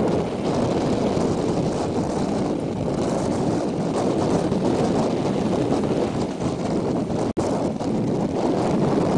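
Wind rushing over the microphone and the steady running noise of a moving passenger train, heard from a coach window. The sound breaks off for an instant about seven seconds in.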